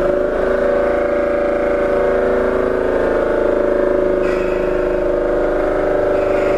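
Steady hum with several held tones of even pitch aboard a Seibu 8500 series Leo Liner rubber-tyred people-mover car, with no rise in pitch: the train is not yet accelerating.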